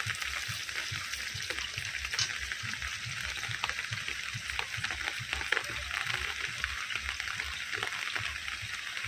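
Neem leaves frying in hot oil in a pan: a steady sizzling hiss full of fine crackles.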